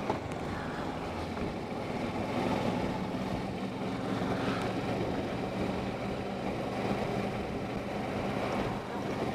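Motorcycle engine running steadily at low speed, a low steady hum, with wind noise buffeting the helmet-mounted microphone.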